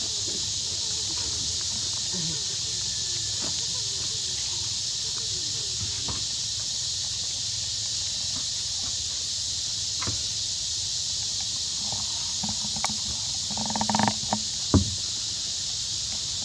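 Steady, high-pitched insect drone, like a cicada or cricket chorus, with a few soft knocks and rustles that come closer together near the end.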